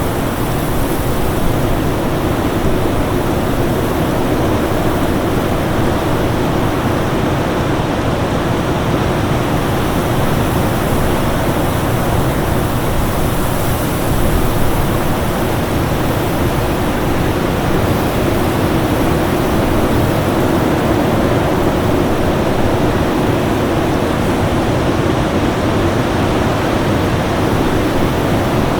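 Winter storm wind ambience: a loud, steady rush of noise, heaviest in the low end, with only slight swells.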